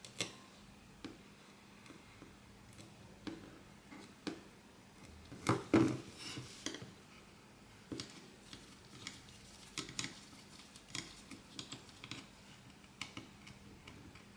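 Small tools and phone parts clicking and tapping irregularly on a work surface during a smartphone repair, with a brief cluster of louder knocks about six seconds in.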